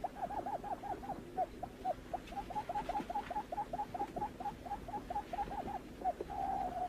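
Barred buttonquail calling: a rapid, even series of short hooting notes, about four to five a second.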